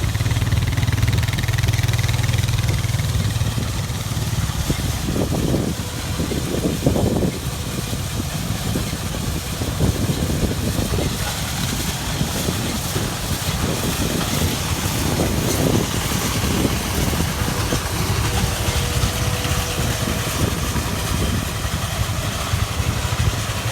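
A vehicle engine running steadily, a low drone.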